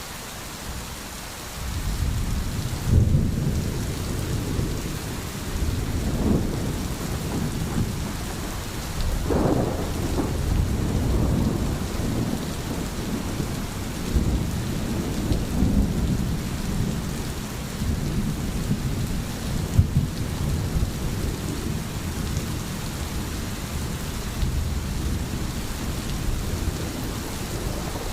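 Thunderstorm: steady rain with rolling thunder rumbling underneath, building about two seconds in, with a few sharper claps along the way.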